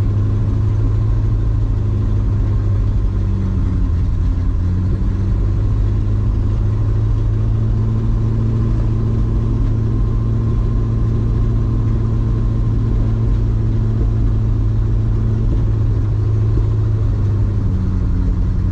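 1966 Ford truck's V8 running at a steady fast idle while still cold and warming up, not yet able to settle to a slow idle. Its speed wavers slightly about four seconds in and again near the end.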